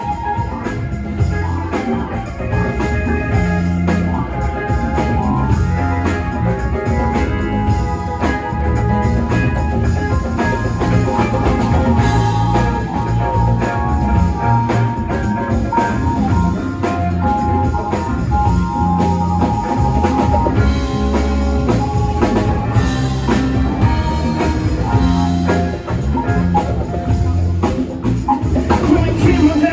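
Live rock band playing an instrumental passage: guitar holding long melodic notes over bass and drum kit.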